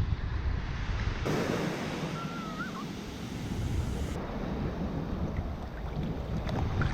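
Sea waves washing onto a sandy beach, with wind buffeting the microphone in a low, gusty rumble. The sound shifts abruptly twice, once about a second in and once about four seconds in.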